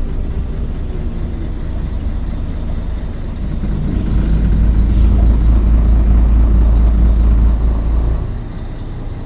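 Scania L113CRL bus's diesel engine running, pulling harder and louder from about four seconds in, then easing off a second before the end.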